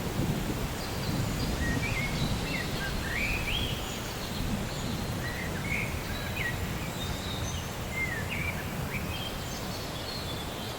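Birds chirping in short calls that glide up and down in pitch, over a low steady rumble of rainy-weather ambience.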